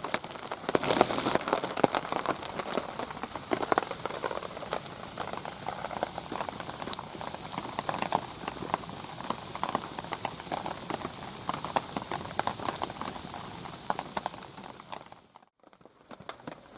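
Rain falling steadily, with dense pattering drops striking surfaces; it cuts off suddenly near the end.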